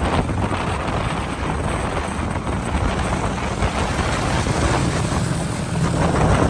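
Dense motorbike traffic: many small engines running at riding speed together with tyre and wind noise, heard from a moving motorbike.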